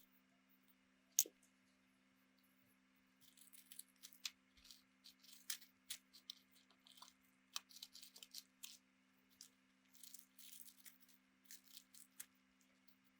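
Faint irregular clicks, taps and brief scratching of small parts and tools being handled at a workbench, with one sharp click about a second in, over a steady low hum.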